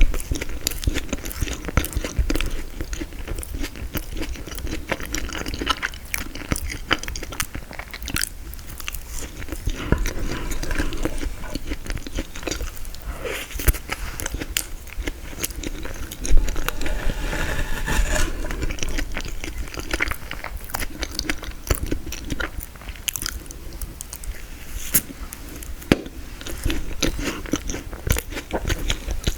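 Close-miked eating: biting and chewing frozen tiramisu, with crunching and crackling of the icy cake and wet mouth sounds. Sharp cracks stand out now and then, the loudest a little past halfway.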